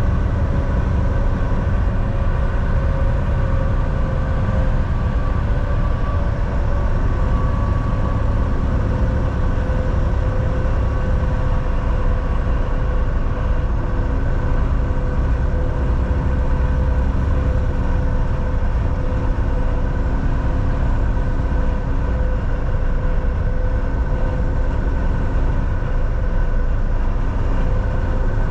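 Steady drone of a Volvo VNL 760 semi-truck cruising, heard from inside the cab: a deep, even road and engine rumble with a steady whine running over it.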